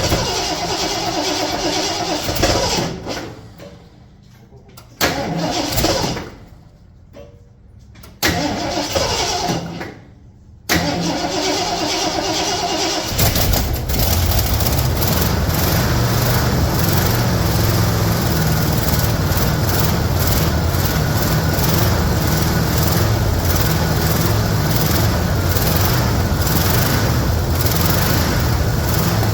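1974 Ford F-250's 460 V8 being cranked by the starter in several short spells with pauses between, then catching about 13 seconds in and running steadily after not having run in a couple of years.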